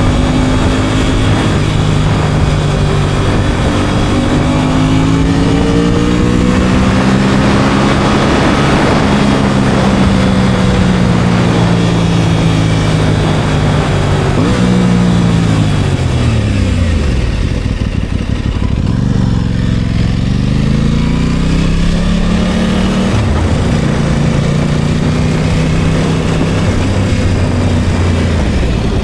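Aprilia Tuono 660 Factory's parallel-twin engine under way, revving up through the gears with the pitch stepping down at each shift. About halfway through the revs fall steeply as it slows, then it pulls away again and settles into a steady cruise, with a rush of wind noise during the first hard acceleration.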